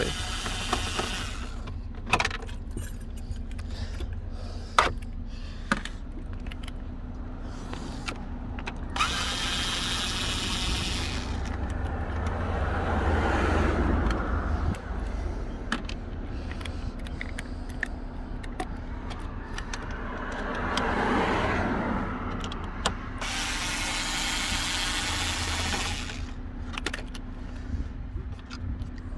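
Small Bosch cordless electric screwdriver running in two short bursts of about two seconds each, driving out dashboard trim screws. Between the bursts come scattered clicks and knocks of plastic trim and tools being handled.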